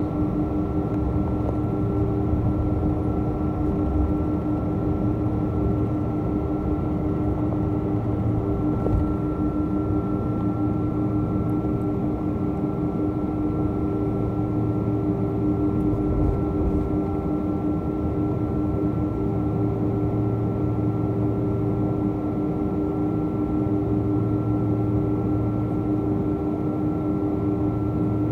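Boeing 777 cabin noise heard from inside the cabin while the plane taxis to the gate after landing: a steady rumble and hiss from the engines and air system, with a few steady hum tones running through it.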